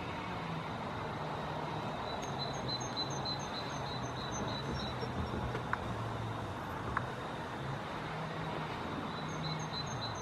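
Hunslet 0-6-0 steam locomotive standing at rest: a steady hiss with a low hum underneath. A bird chirps in two runs of quick high notes, about four a second, and there are two sharp clicks a second apart midway.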